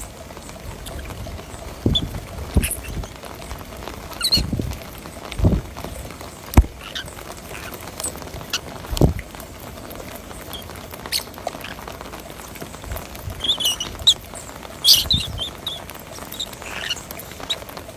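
Small birds giving short, scattered high chirps, busiest near the end, with several dull thumps and one sharp click in between.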